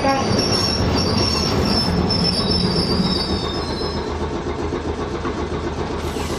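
Hiroshima Electric Railway 550-type tram, a nose-suspended-motor streetcar, rolling with a steady rumble. A thin high wheel squeal fades out about four seconds in.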